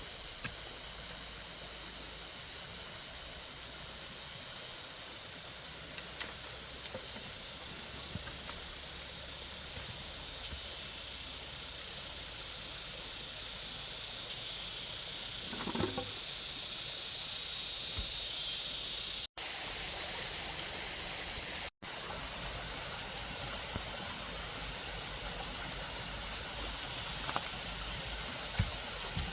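A steady, high-pitched hiss with a few faint knocks, cutting out briefly twice past the middle.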